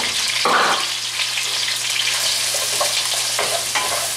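Ginger, garlic and hot peppers sizzling steadily in hot sesame oil in a frying pan, with a brief louder burst about half a second in. Near the end, a wooden spatula scrapes and knocks against the pan as the aromatics are stirred.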